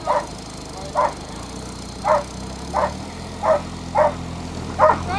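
A dog barking repeatedly, about seven sharp barks under a second apart, over an engine running steadily in the background.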